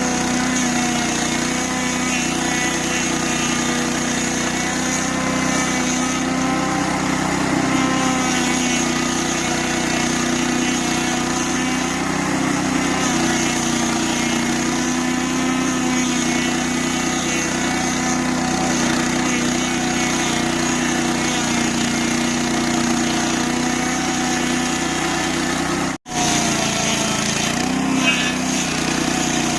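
The 8 hp engine of a stump grinder running steadily under load as its toothed cutter wheel grinds a stump. The sound drops out for an instant near the end, then carries on.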